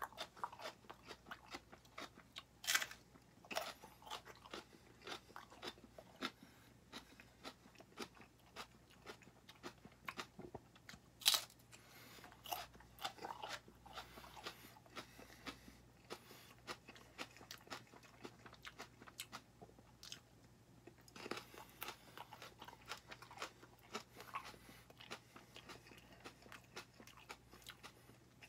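Raw serrano pepper being chewed close to the microphone: a long run of small, irregular, crisp crunching clicks, a few a second, with one louder crunch about eleven seconds in.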